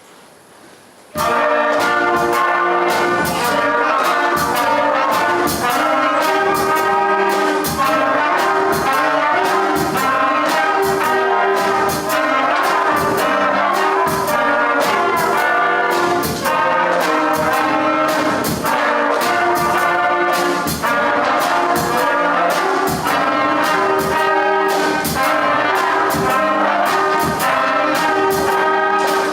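A primary-school concert band begins a piece about a second in, brass carrying the tune over regular percussion hits, and keeps playing loudly.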